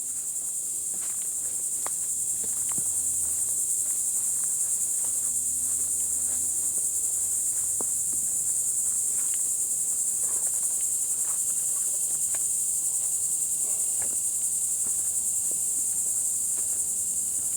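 Steady high-pitched chorus of insects such as crickets or cicadas, unbroken throughout, with faint scattered clicks underneath.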